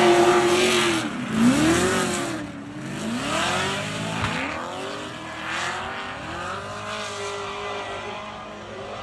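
Car engine revving up and down several times over a hiss of tyre noise, loudest in the first couple of seconds and then easing off, as in a car being drifted.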